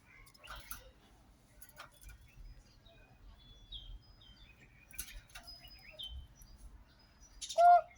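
Pet myna making soft clicks and short high whistled chirps, then one short, louder call near the end.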